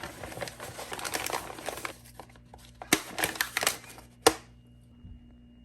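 Crinkling, rustling handling noise, with a sharp click about three seconds in and a louder single click a little after four seconds.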